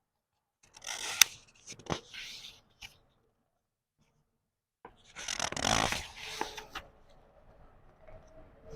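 Pages of a book turned slowly by hand, paper rustling: one turn about a second in with a sharp snap of the page, and another about five seconds in, with silence between them.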